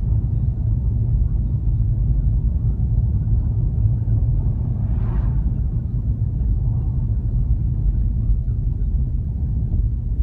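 Steady low rumble of a car driving on the road, with engine and tyre noise heard inside the cabin, and a brief hiss about five seconds in.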